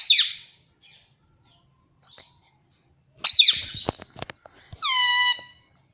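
Pet parrot calling: a short high squawk at the start, a louder sliding call about three seconds in followed by a few sharp clicks, then a held, whistle-like note near the end.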